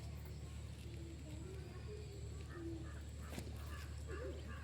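Faint bird calls in short pitched notes over a steady low hum, with a single sharp click about three and a half seconds in.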